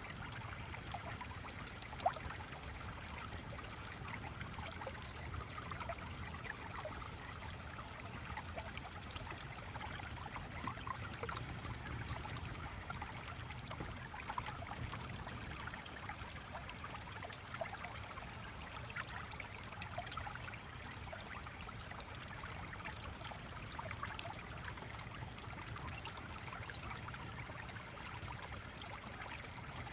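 A stream flowing and trickling steadily, with small scattered ticks and one sharp click about two seconds in.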